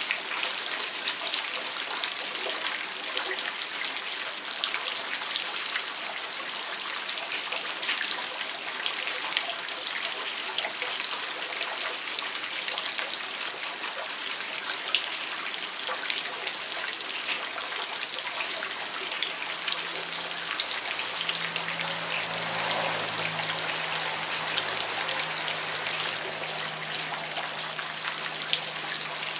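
Steady rain falling, a dense patter of many small drop ticks with running water. A faint low hum joins about two-thirds of the way through.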